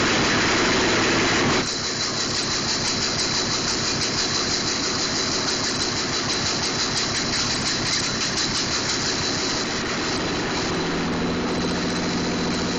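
A 4.3-litre V6 engine running loud for about the first second and a half, then dropping to an uneven, pulsing idle that steadies near the end. The engine is being started for the first time and had flooded just before.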